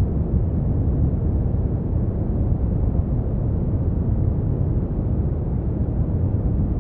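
Brown noise: a steady, deep rumbling hiss with most of its energy in the lows and little treble, unchanging throughout.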